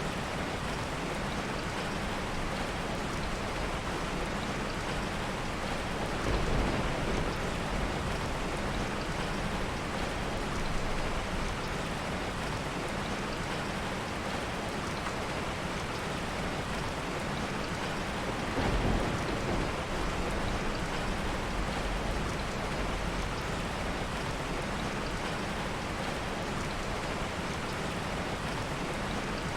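Steady heavy rain, with soft thunder rumbling low twice, about six seconds in and again a little past halfway.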